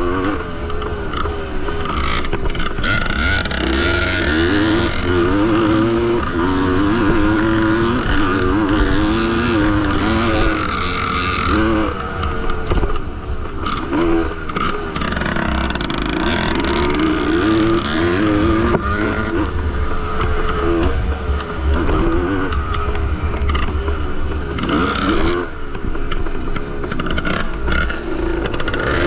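1973 Yamaha MX250's two-stroke single-cylinder engine ridden hard, its note rising and falling over and over with the throttle, with a few brief drops when the throttle is shut off.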